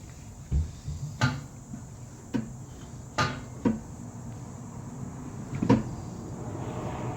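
A series of about six irregular knocks and clunks as a part under the car is worked at by hand to get it off without breaking it. A steady rushing noise rises near the end.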